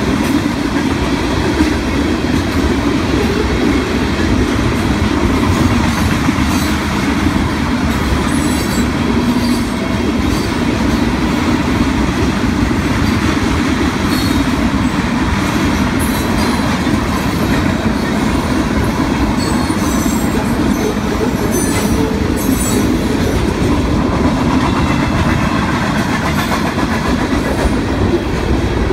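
Union Pacific freight train of covered hoppers, tank cars and autoracks rolling past at speed: a steady loud rumble of steel wheels on the rails with clickety-clack, and brief high squeals from the wheels now and then.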